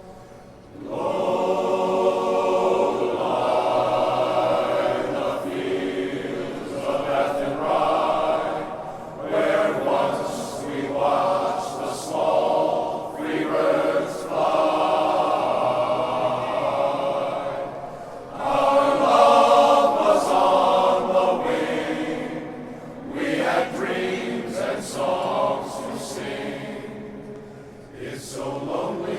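Glee club choir singing together in sustained phrases, the voices coming in about a second in after a brief break.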